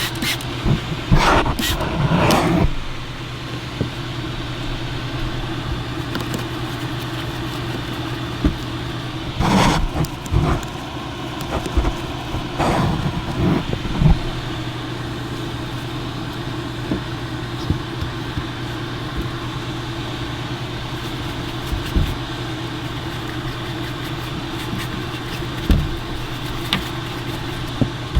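Air mover (carpet-drying blower) running with a steady hum, with a few knocks and rustles of work over it in the first half.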